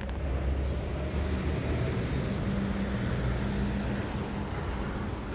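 Steady low hum of a motor vehicle engine amid road traffic noise, growing a little louder partway through.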